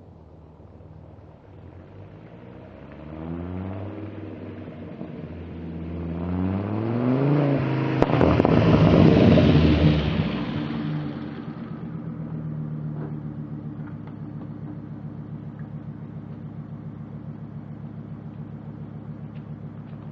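Volvo 850 T5's turbocharged five-cylinder engine and exhaust revving up, rising steadily in pitch for several seconds to a loud peak about eight to ten seconds in. It then drops back to a steady, even running note with a regular pulse.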